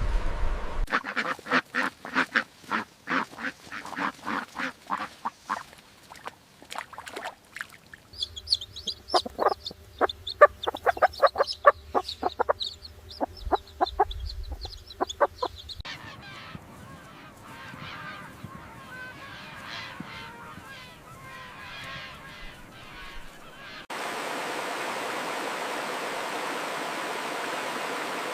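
Domestic fowl calling in quick runs of short honking, cackling calls, in several abruptly cut stretches. Near the end, running water takes over as a steady rush.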